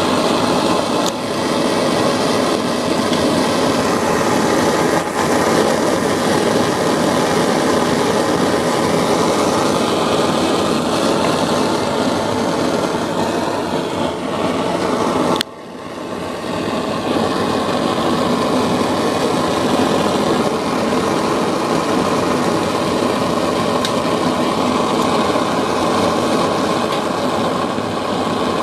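Homemade methylated-spirit Supa Burner, a jet-type spirit burner for model steam boilers, running flat out with a steady jet sound. About halfway through the sound drops out suddenly and builds back over a second or two.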